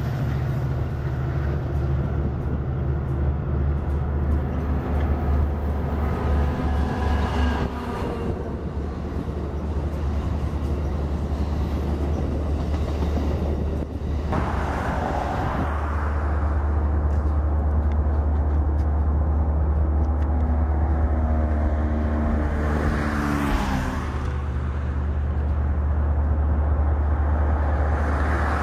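Amtrak diesel-hauled passenger train running past, its bi-level cars rolling by on the rails over a steady low engine drone.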